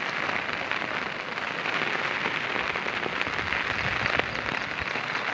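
Steady rushing noise of water, even and unbroken, with faint scattered ticks.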